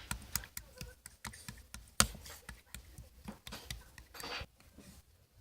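Clear slime being squeezed and poked by hand, making irregular small clicks and pops. A sharper click comes about two seconds in, and a short squishy rush a little after four seconds.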